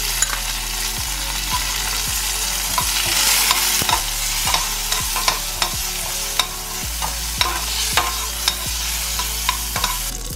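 Peanuts and curry leaves frying in oil in a stainless steel pot, sizzling steadily, with frequent sharp clicks and scrapes as a steel spoon stirs them against the pot.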